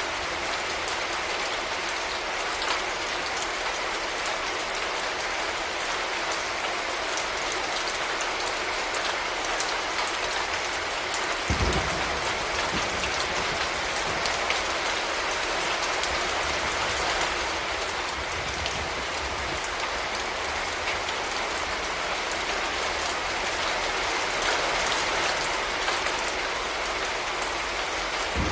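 Steady, heavy rain falling. About a third of the way in, a sudden low rumble rises under the rain and fades over a few seconds.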